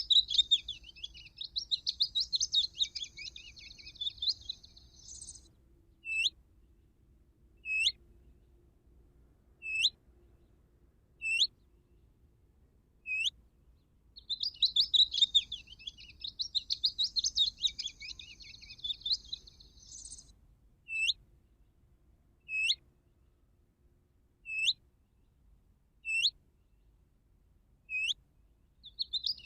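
Recorded songbird calls played on a loop from an electronic bird caller used as a trapping lure. A rapid twittering song phrase of about five seconds is followed by single sharp upswept notes about every second and a half. The pattern repeats about every fourteen seconds.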